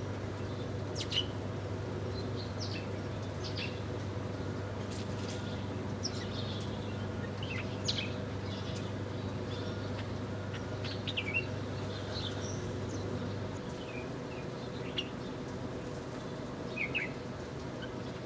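Small birds chirping in short, scattered calls, over a steady low hum that drops away about three-quarters of the way through.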